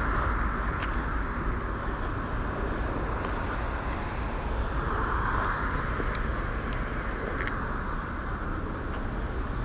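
Steady outdoor background noise, an even rumble and hiss with a few faint ticks.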